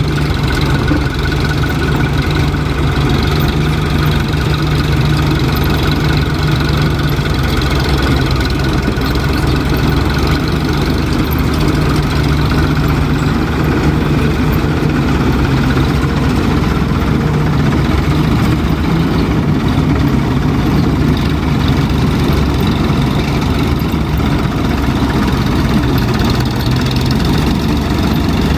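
Diesel tractor engine running at a steady speed, a continuous loud low hum that does not change.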